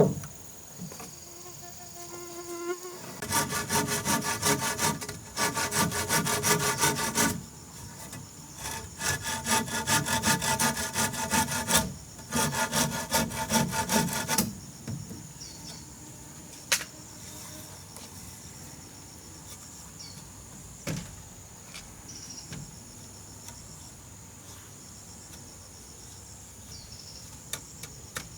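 A saw cutting wood in three spells of quick, even strokes, the first about four seconds long. A steady high-pitched insect drone runs underneath, and a few light knocks follow the sawing.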